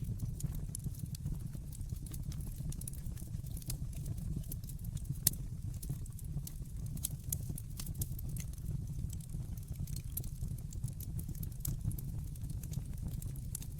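Wood fire in a fireplace crackling: a steady low rumble of burning under many small irregular pops and snaps, with one sharper pop about five seconds in.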